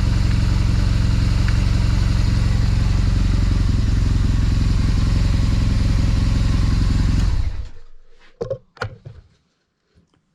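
BMW R1200GS boxer-twin engine idling steadily, then switched off about seven and a half seconds in. A few short knocks follow.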